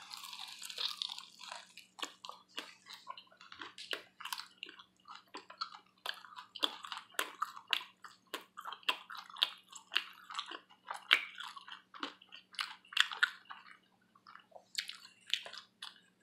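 A person chewing buffalo wings close to the microphone, with many irregular wet clicks and lip smacks. A faint steady hum runs underneath.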